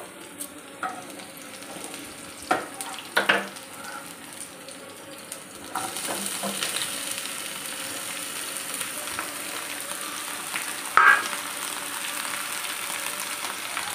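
Food frying in a pan with a few utensil clinks; about six seconds in the sizzling grows louder and steadier, and a loud clatter comes near the end.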